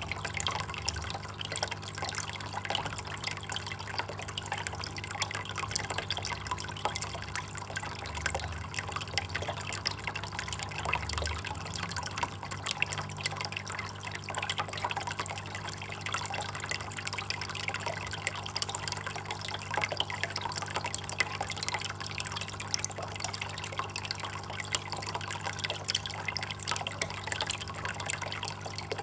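Water trickling and dripping: a steady patter of small drops and splashes, with a low steady hum underneath.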